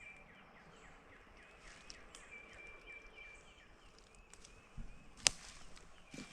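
Quiet outdoor ambience with small birds chirping repeatedly and a thin, held whistle-like call. A single sharp click sounds a little past five seconds in.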